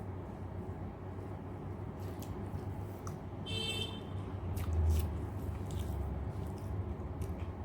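Wet chewing and mouth clicks of someone eating rice and dal, over a steady low hum. A brief high squeak comes about three and a half seconds in.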